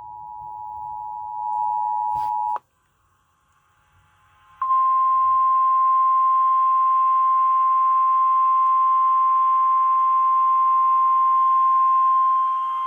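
Emergency Alert System two-tone attention signal: two steady tones sounding together, growing louder, then cutting off abruptly about two and a half seconds in. After a short silence, a single steady tone, slightly higher in pitch, starts sharply and holds: the 1050 Hz weather-radio warning alarm that comes before a tornado warning message.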